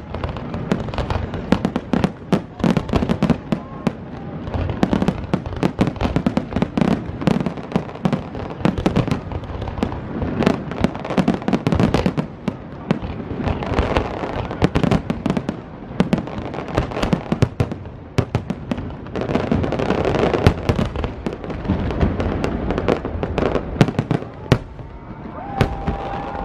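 Fireworks display: a continuous barrage of bangs and crackling, several reports a second with no let-up.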